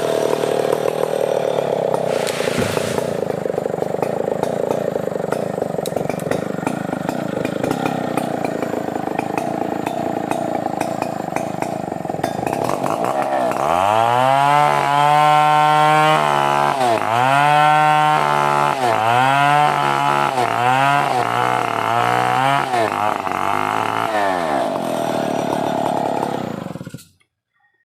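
Stihl 070 two-stroke chainsaw running steadily under load, then from about halfway its pitch repeatedly drops and climbs back as it bogs down and recovers in the cut. The sound cuts off abruptly near the end.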